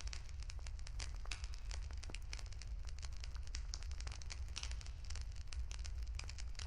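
Wood fire burning, with dense, irregular crackles and sharp pops of the burning firewood over a steady low rumble.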